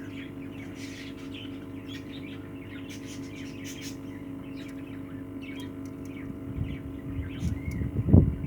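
Budgerigars chirping in short scattered calls over a steady electrical hum. Low rustling and knocking from handling starts in the last couple of seconds.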